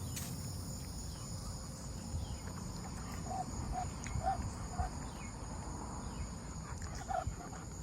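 A steady, high-pitched chorus of insects, such as crickets, in the evening. A few short chirps come from another animal about half a second apart, around three to five seconds in.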